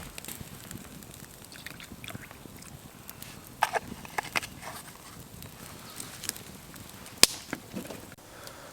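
Scattered small clicks and knocks over a low outdoor background, with a few brief high chirps about three and a half to four and a half seconds in and one sharp crack about seven seconds in.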